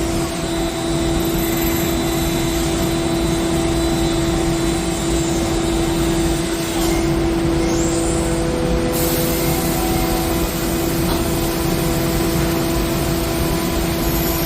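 Doosan Lynx 220LYC CNC lathe running a machining cycle: a steady mechanical hum and hiss with a constant whine.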